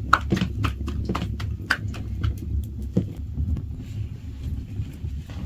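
A quick series of sharp knocks or taps, a few a second, thinning out after about three seconds, over a steady low rumble.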